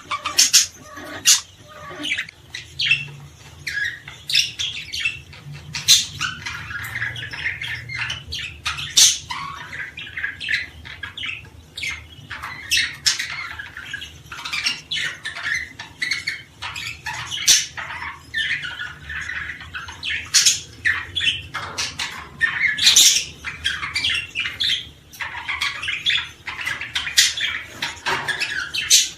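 A group of pet birds chirping and squawking continuously, with many short, sharp calls overlapping.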